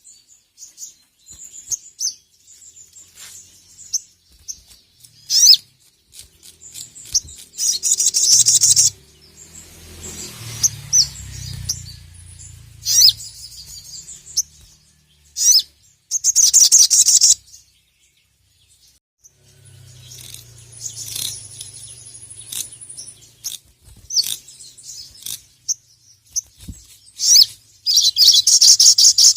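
Brown-throated sunbird (sogok ontong) singing: scattered sharp, high chirps broken by three loud bursts of rapid, buzzy trilling, about 8 s in, about 17 s in and again near the end.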